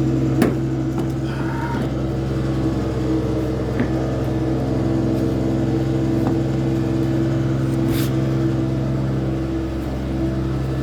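Vacuum tanker truck's engine running steadily, driving its vacuum pump for suction, with a few short sharp knocks, about half a second, four and eight seconds in.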